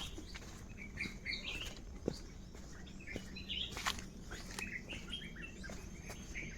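Tropical forest birds chirping with many short calls, with scattered sharp clicks and crackles that are likely steps on the trail's leaf litter.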